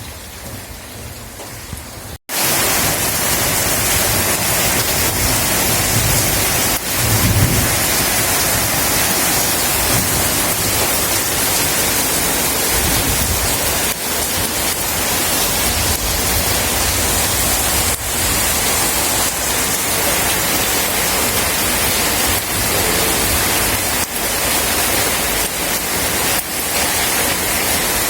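Rain falling steadily, then an abrupt cut about two seconds in to a much louder, heavier downpour with low rumbles of thunder, the strongest a few seconds later.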